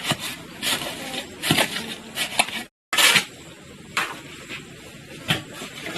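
Scattered clinks and knocks of hard objects being handled, with a brief total dropout about three seconds in.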